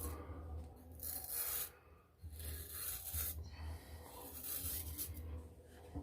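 Razor scraping through lathered stubble in a series of short strokes, a raspy scratch with each pass during the second pass of a wet shave.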